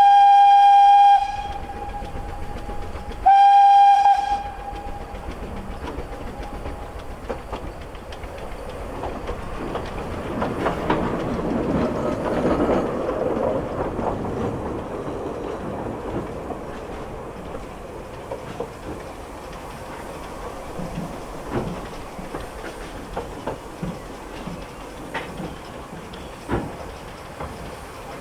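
Narrow-gauge steam locomotive's whistle: one blast that cuts off about a second in, and a second, shorter blast about three seconds in. Then the train runs on with a steady rumble and scattered clicks of wheels over the rail joints. The rumble swells for a few seconds in the middle.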